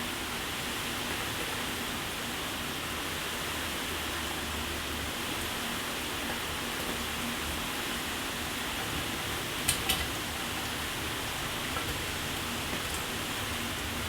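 Shower water spraying steadily, an even hiss of falling water. About ten seconds in, two sharp splats or drips land in quick succession.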